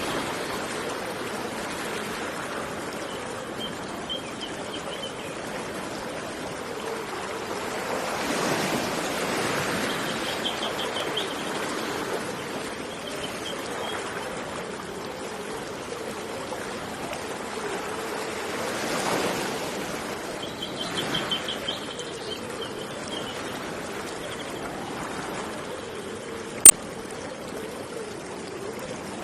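Steady rush of flowing water that swells twice, like waves, with short high trilled bird calls repeated several times. A single sharp click sounds near the end.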